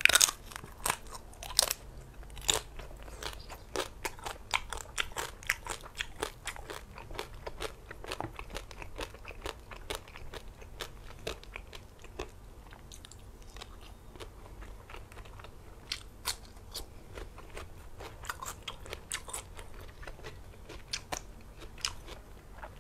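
Close-up crunching and chewing of crisp roast pork: a steady run of sharp bites and crunches, loudest in the first couple of seconds.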